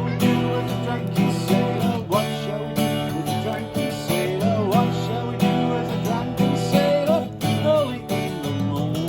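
Acoustic guitar music with steadily strummed chords and a melody line that bends in pitch above them.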